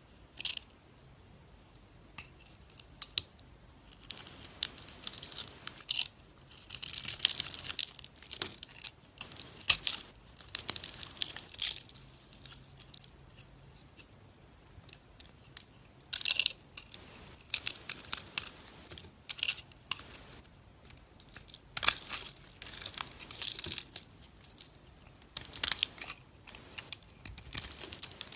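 A knife cutting and carving dry soap: crisp crackling scrapes and crunches in irregular strokes, with sharp clicks, and quiet gaps between runs of cuts.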